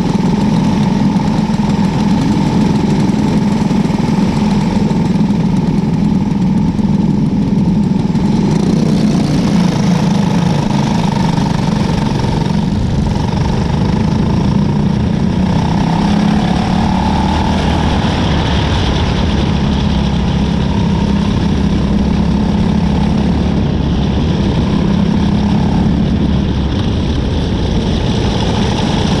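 Engine of a winged cadet-class micro sprint car running steadily at a fairly even pitch, heard close up from a camera mounted on the car.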